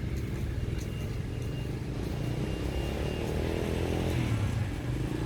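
Road traffic: a motor vehicle's engine running steadily, with one passing by about three to four seconds in, its pitch falling as it goes.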